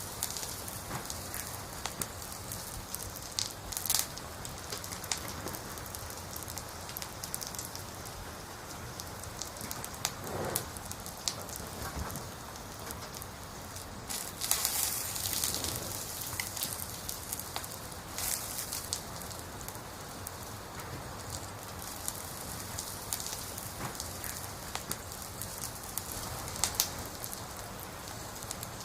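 Burning firewood crackling, with a steady hiss and scattered sharp pops, a brief flurry of pops about halfway through.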